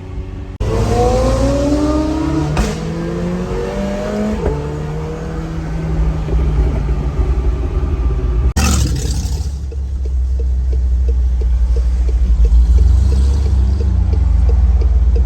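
Car engine accelerating through the gears, its pitch climbing and dropping back at two shifts, then holding steady. After a cut it becomes a deep, loud engine rumble with an even pulse, swelling toward the end.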